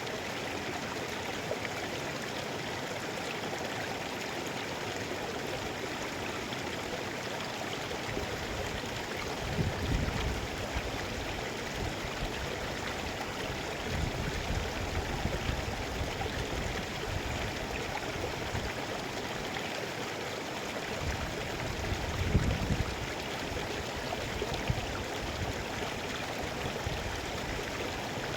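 Mountain river flowing in a steady rush of water, swelling briefly with a deeper rumble a few times, about ten, fifteen and twenty-two seconds in.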